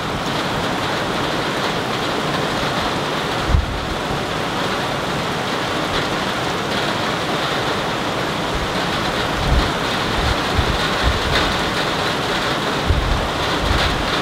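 Rain falling in a steady hiss, with wind buffeting the microphone now and then.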